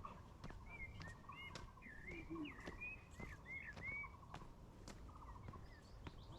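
Birds calling in forest: many short whistled notes that slide up and down in pitch, with bursts of a fast rattling trill beneath them. Scattered sharp ticks run through it.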